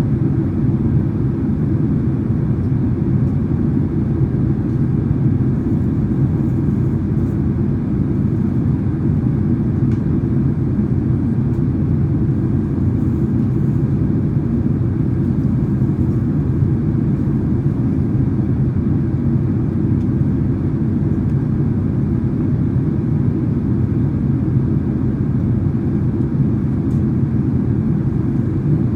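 Steady low rumble of a Boeing 767-300ER's cabin in flight: engine and airflow noise heard from a seat inside the cabin, even in level with no change.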